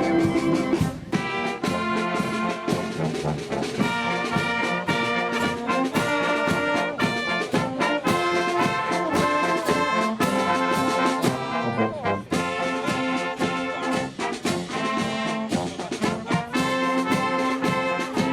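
Volunteer fire brigade brass band playing, with trombones and trumpets over a steady drum beat.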